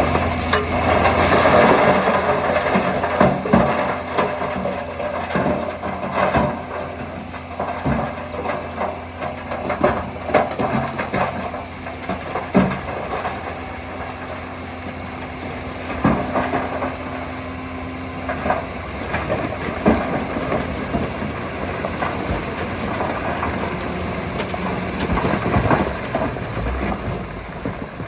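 Heavy diesel engine of earthmoving machinery running steadily at low revs, with scattered knocks and clatter throughout.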